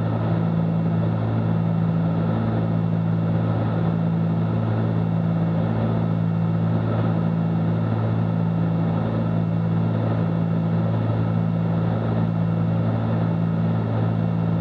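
Cessna 310Q's twin piston engines and propellers droning steadily in flight, heard in the cockpit, with a slow, regular pulsing in the drone.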